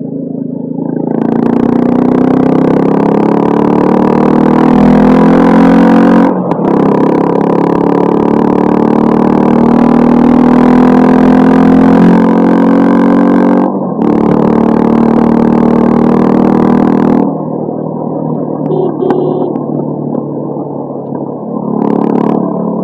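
Honda CB350 motorcycle with a modified stock exhaust accelerating hard through the gears, revs rising in long pulls with brief drops at the gear changes. Near the end it eases off the throttle to a quieter, lower run.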